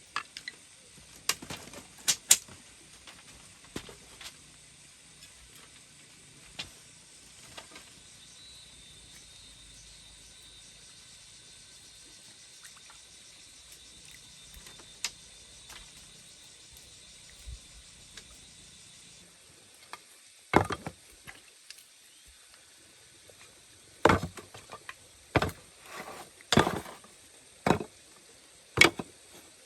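Irregular sharp knocks and clacks, a few near the start and a run of louder ones in the last third, with a faint steady high hum in between.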